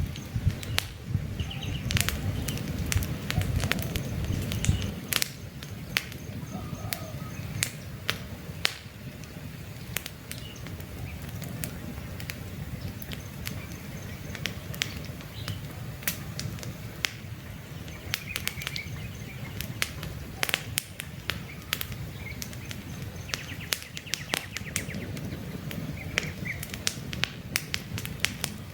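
Wood campfire crackling, with frequent sharp pops over a low rumble of burning that is stronger in the first few seconds. Faint birds chirp now and then in the background.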